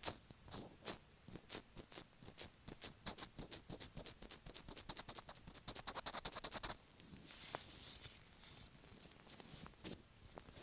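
Latex-gloved fingers tapping right on an earphone microphone. Spaced taps speed up into a fast run of light taps, and about two-thirds of the way through they give way to softer scratchy rubbing with an occasional tap.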